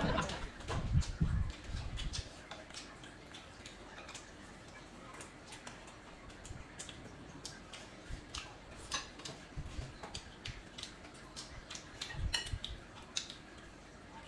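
Eating sounds at close range: chewing and wet mouth clicks and smacks, many short sharp ones scattered throughout, with a few soft low bumps near the start and again near the end.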